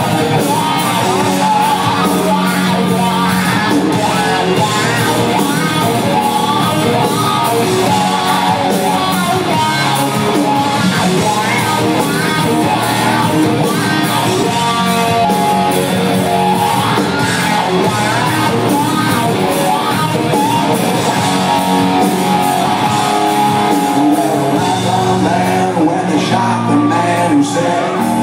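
Live rock band playing loudly, with electric guitars, bass and drums under a male lead vocal.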